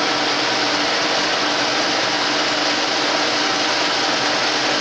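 Metal lathe running steadily at low speed, a continuous mechanical hum with a steady tone.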